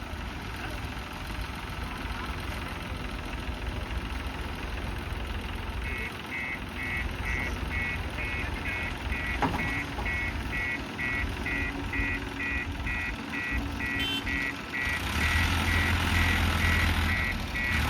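JCB backhoe loader's diesel engine running, with its reversing alarm beeping about twice a second from about a third of the way in. Near the end the engine gets louder.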